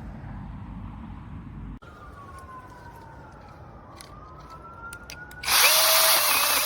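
Cordless mini chainsaw running in a short burst of about a second and a half near the end, a loud buzzing whine from its electric motor and chain. Before it, a low rumbling noise that cuts off suddenly, then a faint rising and falling whine.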